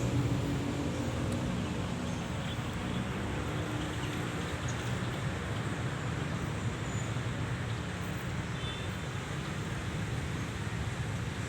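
Steady rumble of road traffic, with one vehicle's engine hum fading away in the first couple of seconds.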